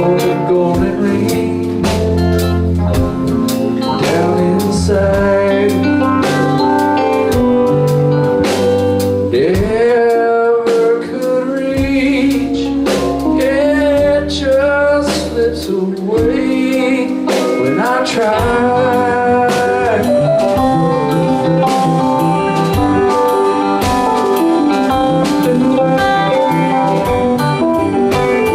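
Live rock band with electric guitars, bass and drums playing an instrumental passage. A lead guitar bends and glides notes through the middle of it.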